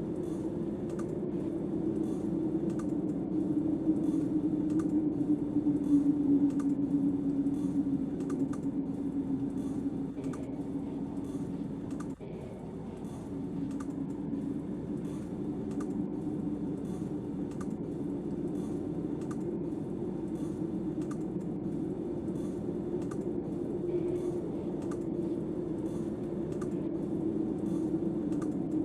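Steady low howl of snowstorm wind that wavers slightly and dips briefly about halfway through, with faint light clicks and crackles throughout.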